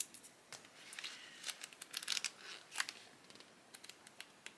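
Pages of a glossy softcover book being flipped, a run of quick paper rustles and light crackles.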